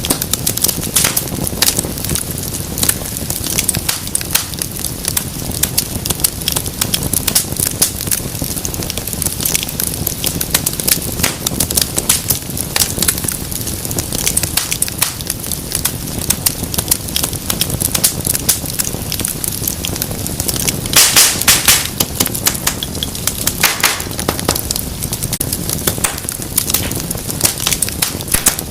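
Wood fire crackling and popping, dense irregular snaps over a steady low rumble of flame. A louder flurry of crackles comes about three-quarters of the way through.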